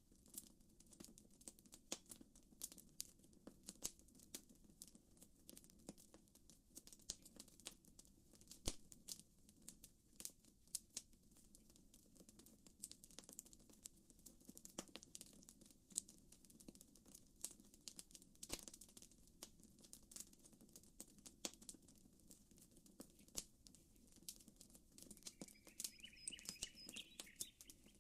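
Campfire crackling faintly, with irregular sharp pops and snaps over a low steady background noise. A bird chirps a few times near the end.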